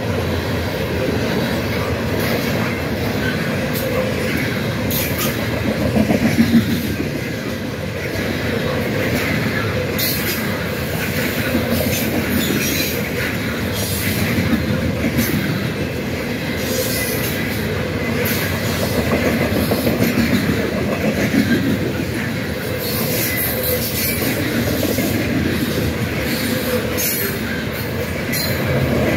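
Long freight train of Norfolk Southern covered hopper cars rolling past close by: steady rumble of steel wheels on rail with clickety-clack over the rail joints, and brief high squeals from the wheels now and then.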